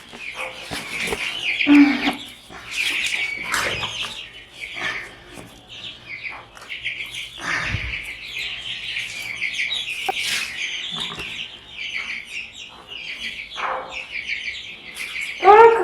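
A brood of young chickens peeping continuously, many high chirps overlapping, with occasional knocks and rustles from handling around them.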